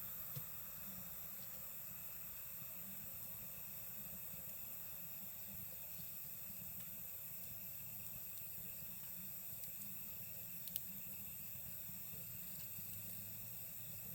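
Insects chirring steadily at night over the faint hiss and low rumble of a campfire, with two sharp crackles from the fire, one just after the start and a louder one about three-quarters of the way through.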